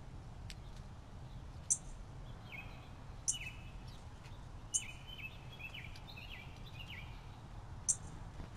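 Small birds calling: a run of short, slightly falling chirps through the middle, with a few sharp high ticks spaced about a second and a half apart, over steady low background noise.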